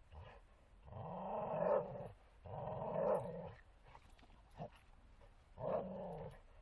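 Bull terrier growling in play: three drawn-out growls of about a second each, with a short one just before them.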